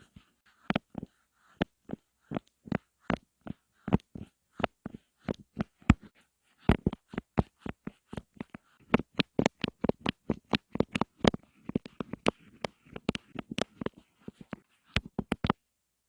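ASMR tapping: a long series of crisp, close-up taps at an uneven pace, sometimes in quick bursts of several, stopping shortly before the end.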